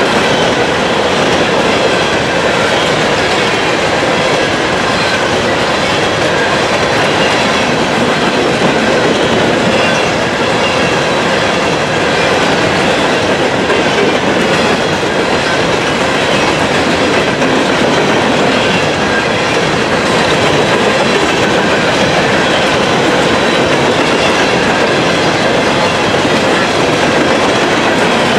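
Railroad cars rolling steadily past, a continuous, even noise of wheels on rail that neither builds nor fades.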